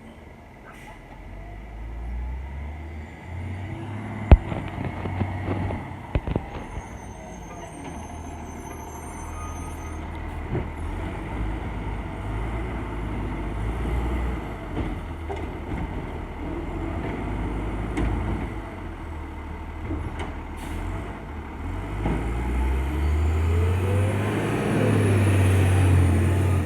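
Diesel engine of a Crane Carrier LET1 garbage truck running on a collection route, with a sharp bang about four seconds in and a few lighter metal clanks after it. The engine gets louder and higher over the last few seconds.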